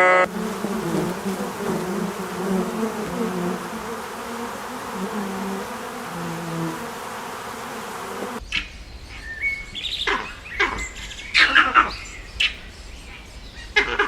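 A flying insect buzzing, a wavering drone, for about eight seconds. It cuts off abruptly and is followed by a run of short, sharp, high bird chirps.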